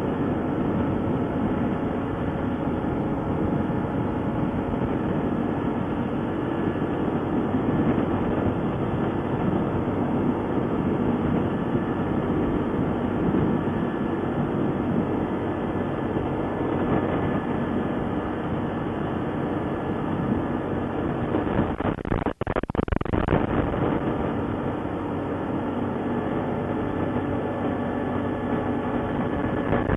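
ATV engine running steadily with a continuous rumble while riding, with one brief drop-out in the sound about two-thirds of the way through.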